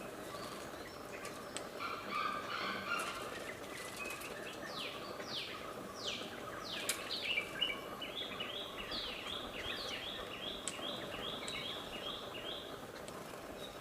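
Wild birds singing: a few calls, then three downward-slurred whistled notes, then a quick run of a dozen or so repeated notes, over a steady background hiss.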